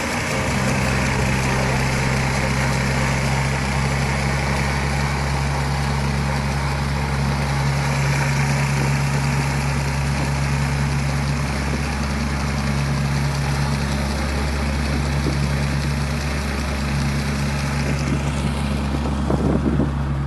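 Heavy farm machine engine running steadily with a low, even drone. Just before the end the high hiss fades and there is a brief clatter.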